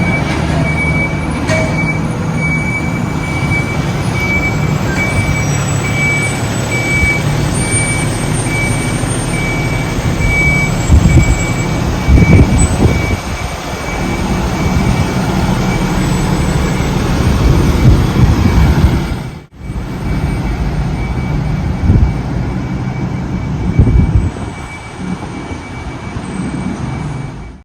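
Fire engine's diesel engine running as it backs up, its reversing alarm beeping in a steady series for about the first ten seconds, then only the engine running, with a brief drop-out about two-thirds through.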